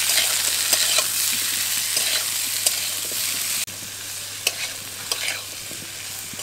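Indian jujubes (kul) frying in hot mustard oil in a kadai, sizzling steadily while being stirred, with scattered clicks and scrapes of the stirring utensil against the pan. A little past halfway the sizzle abruptly becomes quieter and carries on with more stirring clicks.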